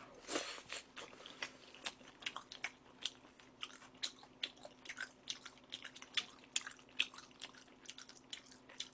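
Close-miked mouth sounds of a person chewing a large mouthful of food: a steady run of short wet clicks and crunches, with a longer burst of noise about half a second in.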